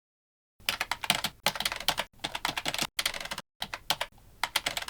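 Keyboard typing: rapid, irregular clicks of keys in a few short runs, starting abruptly about half a second in and broken by brief gaps.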